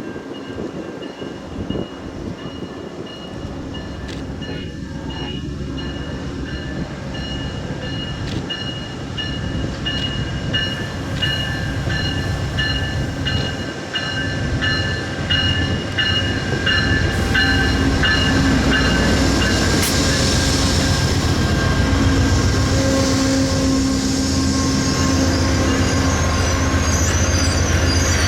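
Amtrak P42DC diesel-electric passenger locomotive running on the rails. Its engine drone grows steadily louder, with a rhythmic clicking in the middle part and a high wheel squeal near the end.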